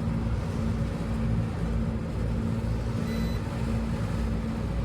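A steady low machinery hum, with one short high beep from a multimeter about three seconds in as a compressor terminal is tested to ground. The beep signals continuity to ground: the compressor winding is shorted, a failed compressor.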